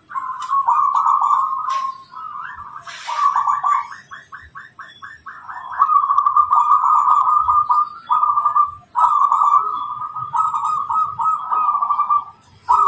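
Wild zebra dove (perkutut) calling almost without a break, its cooing notes overlapping one another. A quick run of short, evenly spaced notes comes about a third of the way in, and then the cooing resumes.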